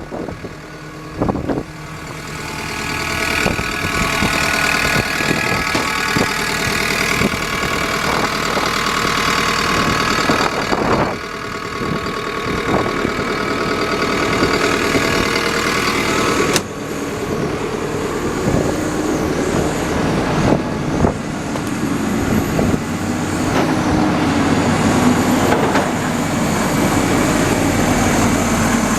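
A JCB JS145LC tracked excavator's diesel engine running, rising in level over the first few seconds, with occasional short knocks. The sound changes abruptly about halfway through.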